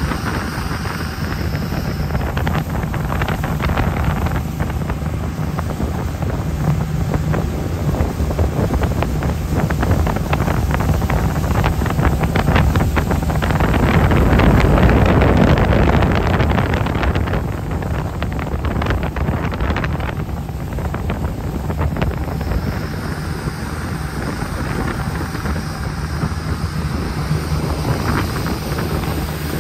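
Jet boat engine running at speed, a steady low hum under heavy wind buffeting on the microphone. It grows louder a little before halfway through, then eases back.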